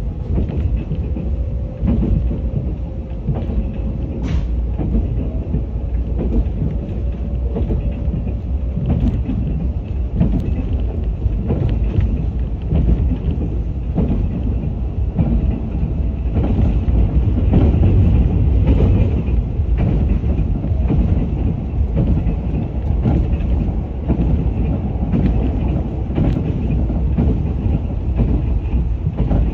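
Limited express Yakumo electric train running at speed, heard from inside the passenger car: a steady low rumble of wheels on rail, with scattered clicks as the wheels pass over rail joints. A faint steady hum sounds for the first several seconds.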